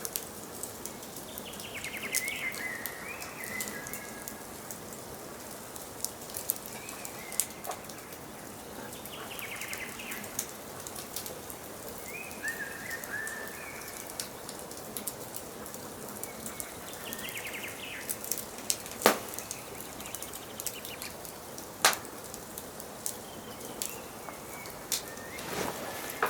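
Wood fire crackling with a steady hiss and scattered sharp pops, two of them loud a little after two thirds of the way through. Songbirds sing short chirping phrases every few seconds over it.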